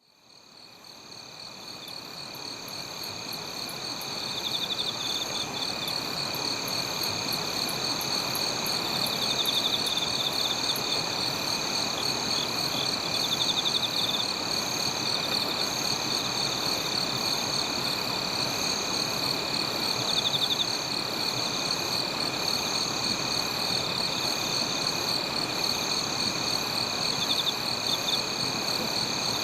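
A chorus of crickets and other singing insects: several steady, high trills at different pitches overlapping, some pulsing and others shorter and faster, fading in over the first few seconds.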